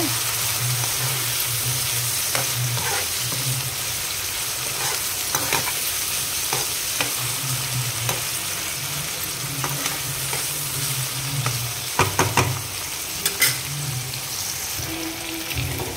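Freshly added chopped tomatoes, onions and green chillies sizzling in oil in a nonstick frying pan as a spoon stirs them. The spoon knocks and scrapes against the pan now and then, loudest in a quick cluster about twelve seconds in.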